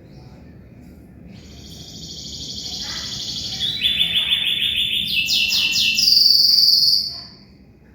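Canary singing a long rolling trill that grows louder, drops to a lower trill about halfway through, then steps up through rapid trills to a high rolling note that stops about a second before the end.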